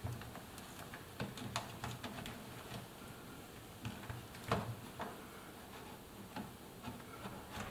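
Irregular light clicks and taps of hands working a rubber door boot onto the drum opening of an Indesit washing machine, with one sharper tap about halfway through.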